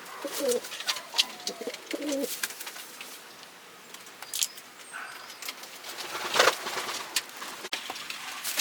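Domestic pigeons cooing in low, rolling calls through the first couple of seconds, with scattered light clicks and knocks. A brief louder rustle comes about six and a half seconds in.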